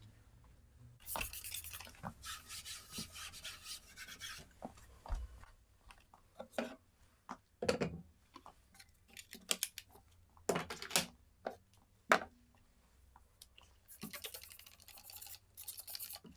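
Rubbing or scrubbing strokes in two stretches, one about a second in and one near the end, with scattered light knocks and clicks of objects being handled in between.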